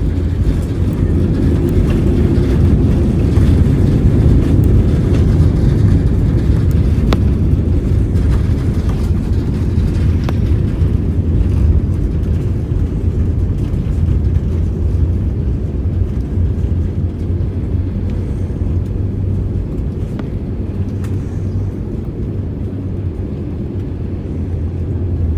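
Airbus A320 heard from inside the cabin during the landing roll: a loud, steady low rumble of engines and wheels on the runway that slowly grows quieter as the jet slows, with a couple of faint knocks.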